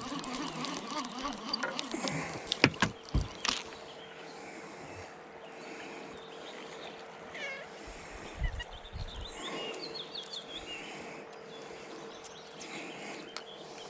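Quiet riverside ambience with a few short bird calls, over a faint steady hum. A few sharp clicks and knocks come a few seconds in as fishing line and snagged debris are handled.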